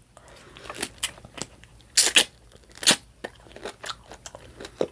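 A person chewing food, with a series of sharp mouth clicks. The loudest come about two and three seconds in.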